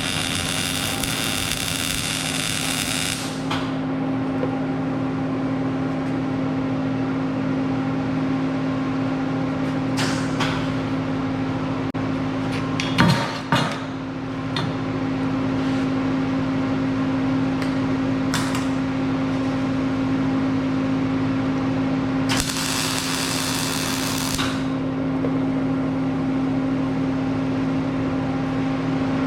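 Welding on the steel cart's legs: a steady machine hum throughout, broken by two short bursts of welding-arc sizzle, one at the start and one about 22 seconds in. A couple of metal clatters come around 13 seconds.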